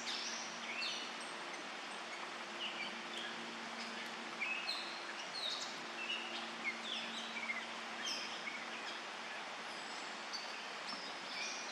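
Several woodland birds singing and calling: many short chirps, mostly sliding downward in pitch, repeating from different directions over a steady background hiss.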